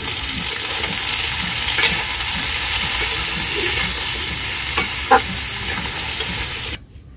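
Cubed potatoes and taro sizzling steadily in hot oil in a metal wok while being stirred with a metal spatula, which clicks against the pan a few times. The sizzle cuts off suddenly near the end.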